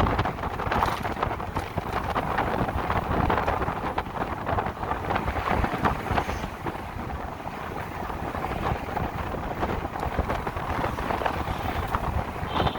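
Wind buffeting the microphone on a moving electric motorcycle, a steady rushing noise with road and traffic noise underneath.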